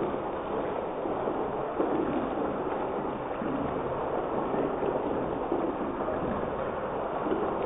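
Chicken pieces frying in oil in a wok on a gas stove, a steady sizzle.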